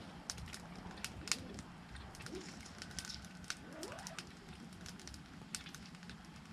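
Wood fire crackling, with sharp irregular pops scattered through.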